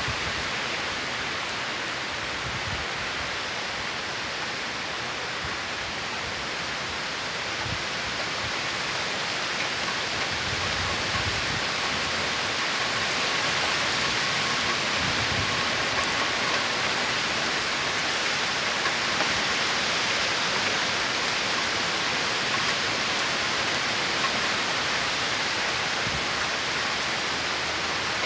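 Torrential rain pouring down in a steady, dense hiss, growing a little heavier about ten seconds in.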